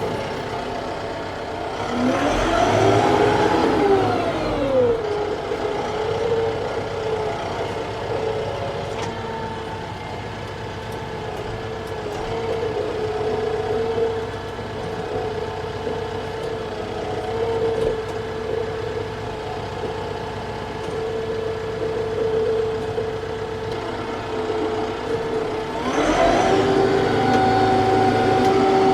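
TYM T654 tractor's diesel engine running under way. Its pitch rises and falls over a couple of seconds early on, holds steady, then climbs to a higher steady pitch near the end.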